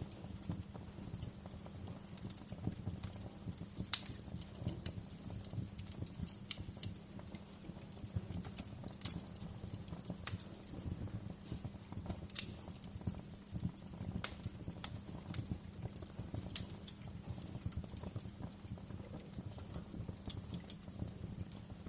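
Wood fire crackling in a fireplace: irregular sharp pops and ticks over a low, steady rumble, with one louder pop about four seconds in.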